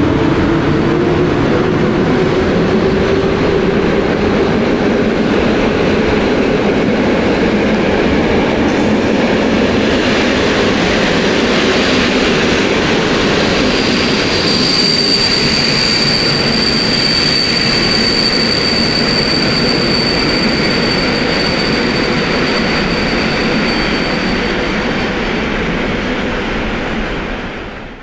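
Passenger coaches of a departing train rolling past on the rails with a steady rumble. About halfway through, a thin, high wheel squeal sets in and lasts roughly ten seconds. The sound fades out at the very end.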